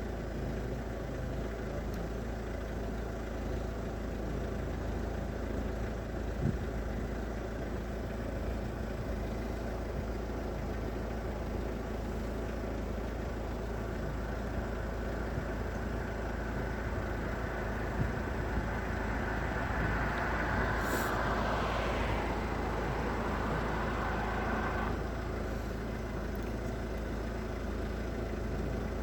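Roadside vehicle noise: a steady low engine rumble, with a louder rushing sound that builds through the middle and drops away sharply a few seconds before the end.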